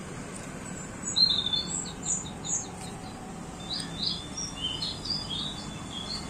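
Birds chirping and singing in a run of short, high notes and quick trills. The loudest chirp comes about a second in. A steady low background hum runs under the calls.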